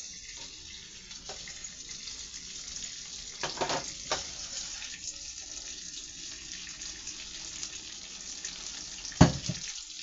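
Chicken nuggets frying in butter and hot sauce in a pan: a steady sizzle with scattered crackles and pops, and a sharp knock about nine seconds in.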